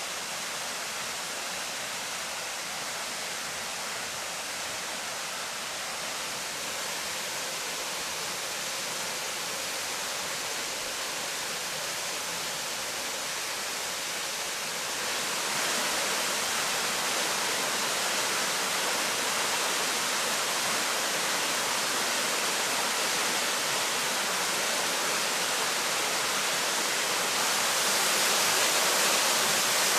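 Steady rush of falling water, a dense hiss that grows louder in two steps, about halfway through and again near the end.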